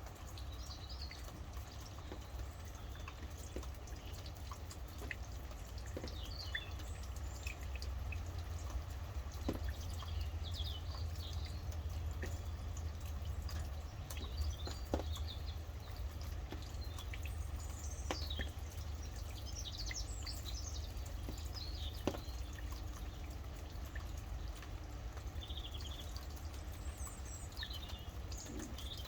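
Rain dripping, with scattered sharp drops over a steady low rumble, while small birds give short chirps and song phrases on and off.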